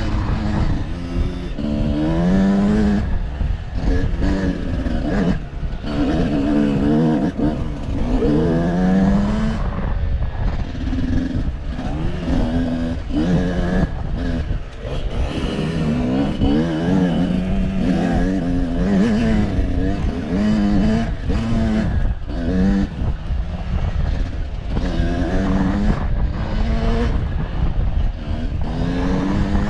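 A motor vehicle's engine revving up and down over and over, its pitch rising and falling every second or two as the throttle opens and closes, over a steady low rumble.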